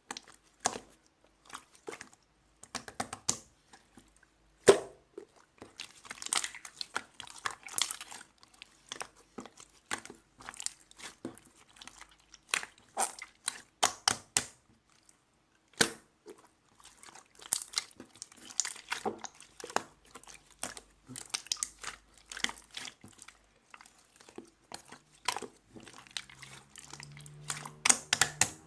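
Clear slime being worked by hand, giving irregular wet clicks, pops and crackles as it is squished, stretched and folded.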